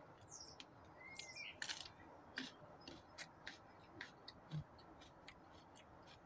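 Faint close-up chewing: a string of short crisp clicks and crunches from a mouthful of raw red chili and salad. A bird chirps a few times in the background near the start.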